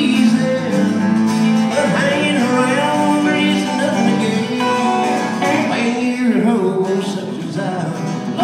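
Live country music from a band with acoustic guitar, played without sung words.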